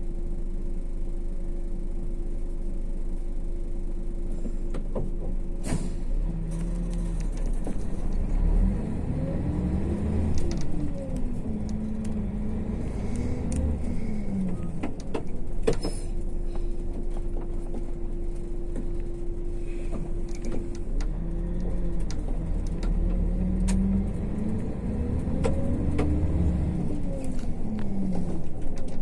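MAZ-152 intercity bus running, heard from inside the cabin: a steady low engine and road hum, with the engine and drivetrain pitch rising and falling twice. A few sharp clicks or rattles come through.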